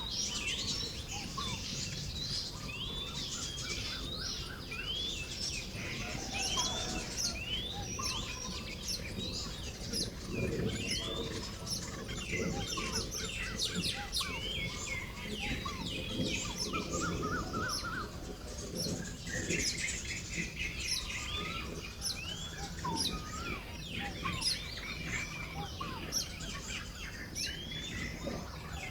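A colony of baya weavers chirping and chattering while building their nests: many short, overlapping calls and quick sweeping notes, with no pause.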